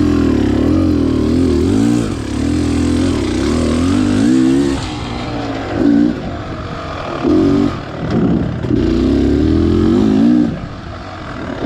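Beta Xtrainer 300 two-stroke single-cylinder dirt bike engine under riding load, the revs rising and falling with the throttle in repeated short bursts, then easing off near the end.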